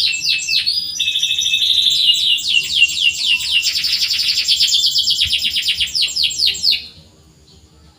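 Domestic canary singing a fast, loud series of repeated downward-sliding chirps and trills. It stops abruptly about a second before the end.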